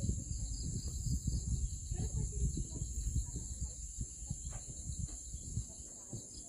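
Steady high-pitched chorus of crickets or similar insects. Under it is an irregular low rumbling, like wind or handling on the microphone, that dies away near the end.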